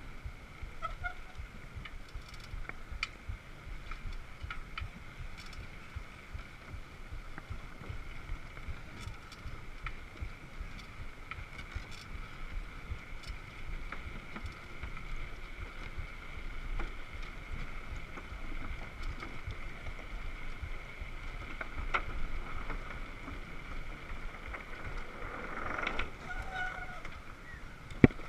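Wind buffeting the microphone during a ride, with a steady high two-tone whine running under it and a few faint clicks.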